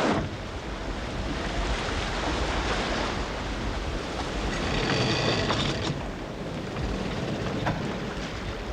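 Stormy sea: wind and waves, with wind buffeting the microphone.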